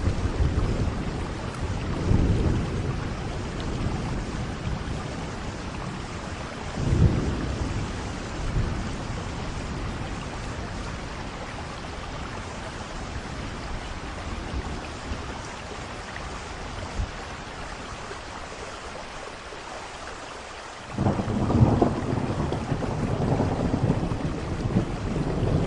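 Steady rain falling, with low rolling rumbles of thunder that swell and fade in the first few seconds and again about seven seconds in. Near the end a louder thunder rumble starts abruptly and keeps rolling.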